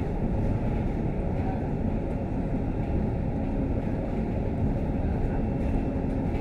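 Steady low rumble of a Scania K310UD double-decker bus, engine and running gear, heard from inside the passenger cabin, with a faint steady engine hum under it.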